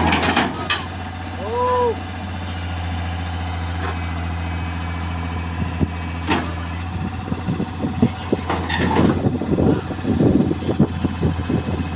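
Heavy diesel engine running steadily, with a short rising-and-falling tone about a second and a half in and a rapid, irregular run of knocks and clanks from about seven seconds on.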